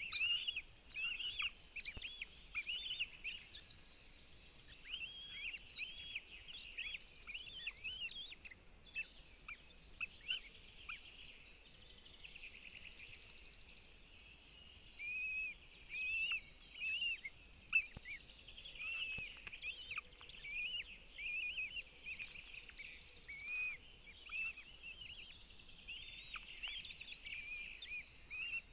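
Birds calling: many short, high-pitched arched call notes repeating irregularly throughout, over a faint steady outdoor hiss.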